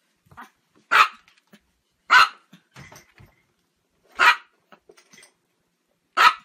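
A Chihuahua barking four times, short barks spaced about one to two seconds apart.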